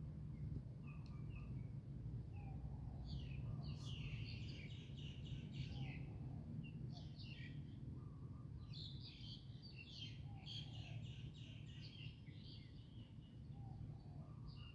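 Birds calling in the trees, with rapid high chirps coming in two busy spells, over a steady low background rumble.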